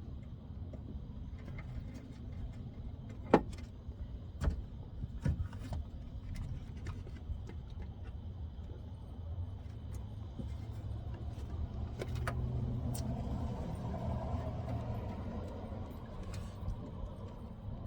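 Scattered sharp clicks and knocks of small parts and hand tools being handled while a truck door speaker is worked on, the loudest about three seconds in. They sit over a steady low rumble, and a broader rushing noise swells about twelve seconds in and lasts a few seconds.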